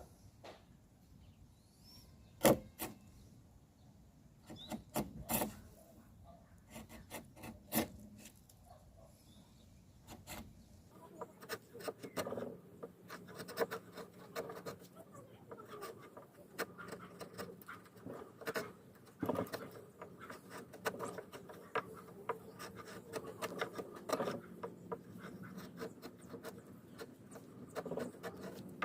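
Wooden pieces being handled and worked by hand: a few sharp wooden knocks in the first eight seconds, then from about eleven seconds in a steadier run of rubbing, scraping and small clicks.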